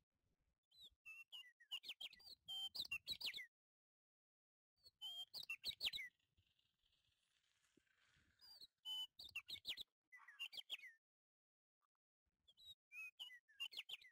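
A small bird chirping in four short bursts of quick, high chirps that drop in pitch, with silent gaps between the bursts.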